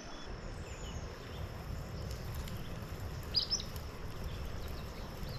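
Quiet outdoor creek ambience: a steady low rumble and faint hiss, with a brief cluster of high bird chirps about three and a half seconds in.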